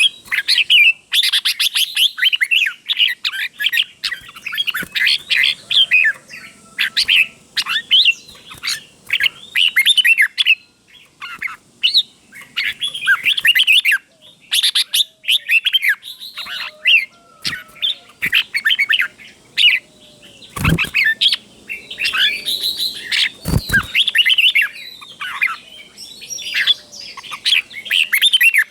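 Red-whiskered bulbul singing: quick warbled phrases repeated in pairs, with short pauses between bursts. Two low thumps sound about 21 and 24 seconds in.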